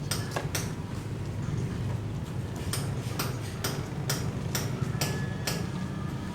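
Sharp knocks repeating about twice a second over a steady low hum.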